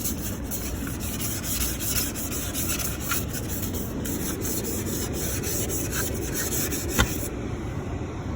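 An ice scraper scraping frost off the inside of a car window in repeated strokes. A sharp knock comes about seven seconds in, and the scraping stops just after it.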